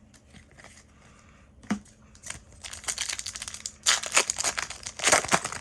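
Foil booster-pack wrapper crinkling and tearing as a trading-card pack is ripped open. The crackle starts a couple of seconds in and comes in uneven handfuls, loudest near the end.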